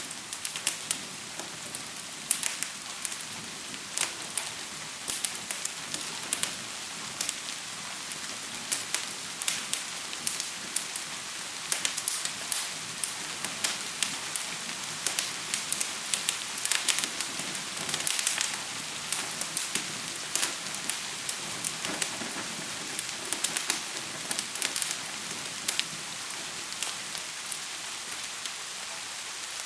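Steady hiss of gentle rain mixed with the irregular sharp pops and crackles of a fire. The crackles come thick and fast, then grow sparser near the end.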